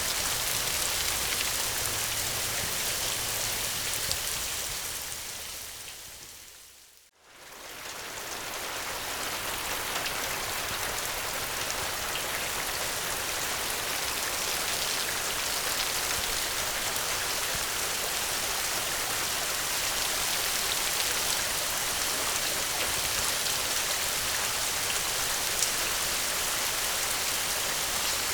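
Steady rain, an even hiss of falling drops across the whole range. About seven seconds in it fades away almost to silence, then swells back within a couple of seconds.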